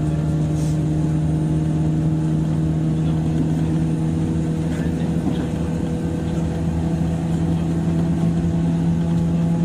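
Interior noise of a JR 103 series electric train's motor car (MoHa 103-773): a steady electrical hum of several constant tones over a low rumble.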